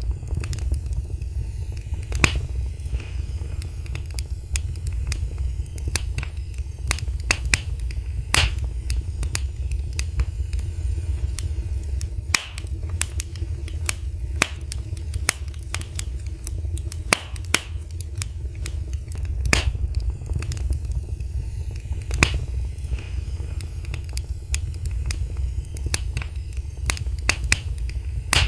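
Wood fire burning in a fireplace, crackling with irregular sharp pops a few times a second over a steady low rumble.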